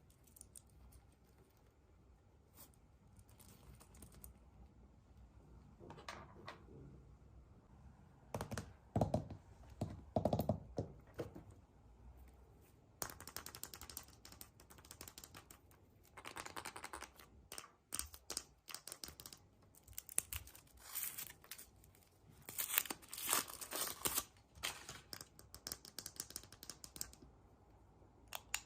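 Hands unwrapping surprise-egg packaging: a thin wrapper is torn and crinkled, with clicks and knocks as it is handled. The sound comes in irregular bursts, quiet at first, then loudest through the middle and later part.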